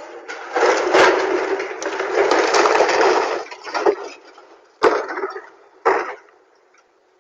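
A loud crash: dense noise for about three seconds, then two sharp knocks about a second apart.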